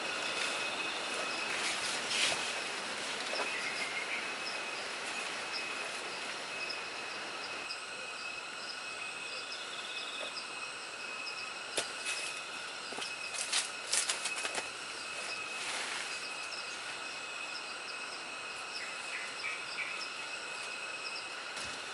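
Steady chorus of insects, with high shrill tones and pulsing trills, and a few short knocks about halfway through.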